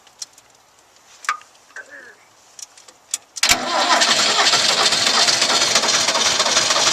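A few light clicks, then about three and a half seconds in the 40-horsepower four-wheel-drive Ford tractor's diesel engine starts suddenly and keeps running loudly. This is its first start after sitting for years, following repairs to the starter wiring and the ground neutral switch.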